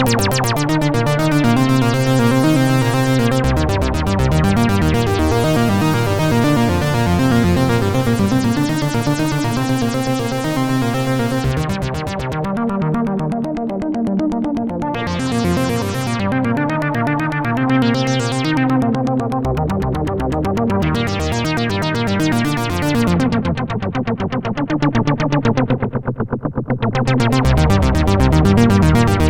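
Arturia MatrixBrute analog synthesizer playing a fast, repeating sequenced pattern over shifting bass notes. Its filter sweeps open and closed several times in the middle, brightening and darkening the sound.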